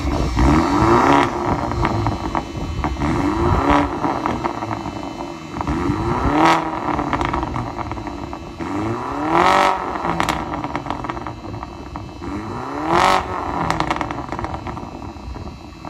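BMW G22's engine revved through an aftermarket valved Varex performance exhaust, open for sound. Between repeated short rev blips every few seconds, each pitch sweep climbing sharply and falling back, it settles to a steady engine note.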